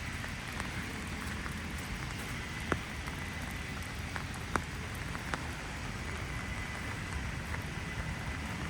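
Steady heavy rain falling, an even hiss, with a few sharp taps close by about three, four and a half, and five seconds in.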